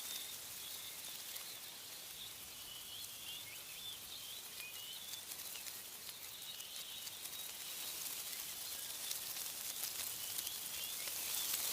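Small birds chirping in short, high calls scattered through, over a steady high hiss of wind rustling tree leaves that grows louder near the end.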